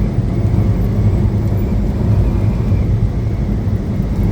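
Steady low engine and road drone inside the cab of a moving truck.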